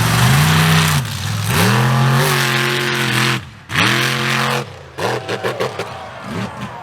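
Mega mud truck's engine revving hard in three surges, its pitch climbing and falling each time, with the middle surge held for nearly two seconds, over a loud rushing noise. Near the end it drops to a lower, uneven engine sound.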